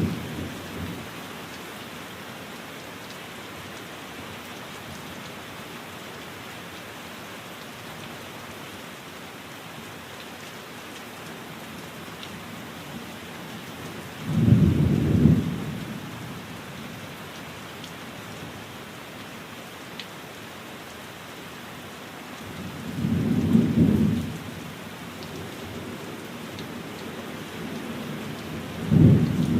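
Steady rain falling, with deep rumbles of thunder breaking through: one fading just as it begins, one about halfway through, another some eight seconds later, and a fourth at the end.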